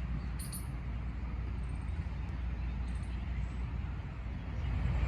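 Outdoor ambience: a steady low rumble with a few short, high bird chirps, one about half a second in and another about three seconds in. The rumble grows louder near the end.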